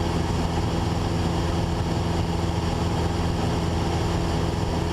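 Steady drone of a Cessna 172's four-cylinder piston engine and propeller in cruise, heard inside the cabin: an even hum that does not change in pitch or level.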